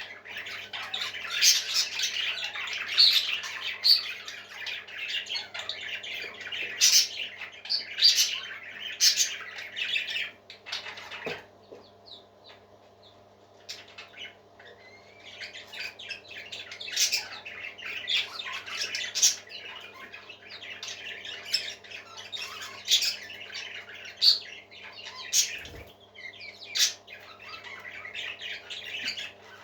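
Parrots squawking and chirping in dense, rapid calls, which stop for a few seconds about eleven seconds in, over a faint steady hum.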